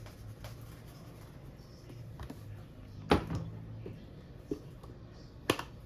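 Kitchen utensils and containers being handled, with two sharp knocks about three and five and a half seconds in and a small click between them, over a faint low hum.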